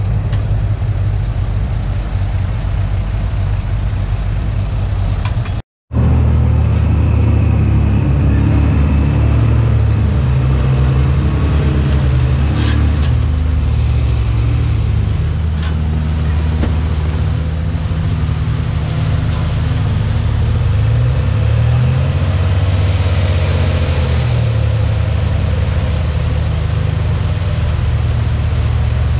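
Heavy diesel earthmoving machinery running, its engine note shifting in pitch with load. The sound cuts out briefly about six seconds in, then continues.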